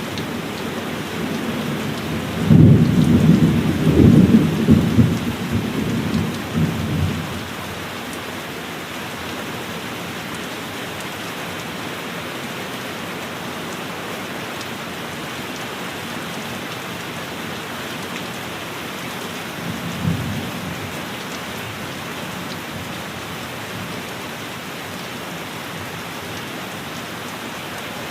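Steady heavy rain with a loud thunderclap rolling and crackling for about four seconds near the start, and a short, fainter crack of thunder about twenty seconds in.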